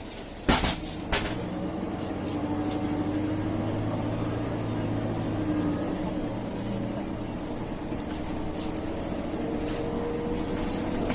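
Interior of a MAN A21 city bus: two sharp knocks about half a second apart near the start, then the engine running under load, its pitch slowly rising as the bus moves off.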